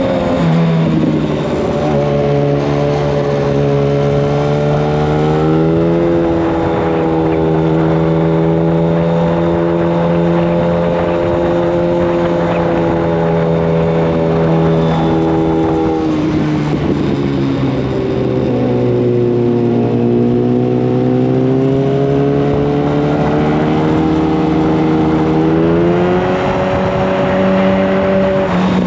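Yamaha FZ1 Fazer's inline-four engine running through a Mivv GP exhaust with the dB killer removed, ridden on the road. The engine note holds fairly steady, rises about six seconds in, drops away around the middle as the throttle eases, then builds back up.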